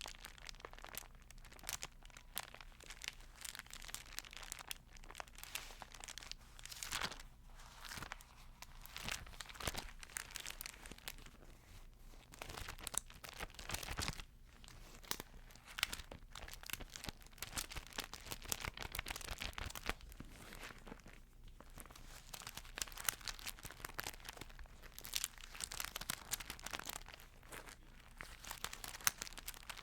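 Paper pages of a Bible being handled and turned, a steady run of soft crinkles and crackles with short lulls.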